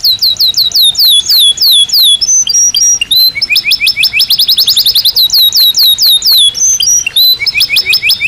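Belgian canary singing a loud, rapid song in tours of repeated whistled notes. It starts with quick down-slurred notes, switches about three seconds in to a faster run of notes swooping up then down, and returns to down-slurred notes near the end.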